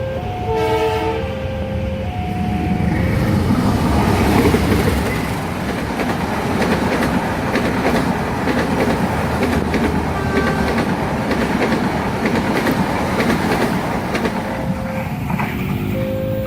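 A train passing fast over a level crossing, with many quick clacks of wheels over rail joints under a steady rumble. About half a second in there is a short train horn blast, and the crossing's warning alarm sounds in two alternating tones at the start and again near the end.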